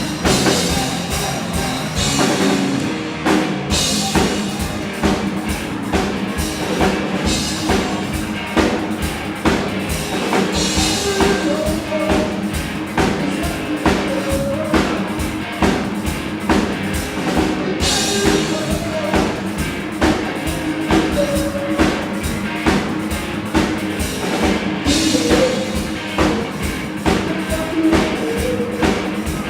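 Rock band playing live: electric guitars over a drum kit keeping a fast, steady beat.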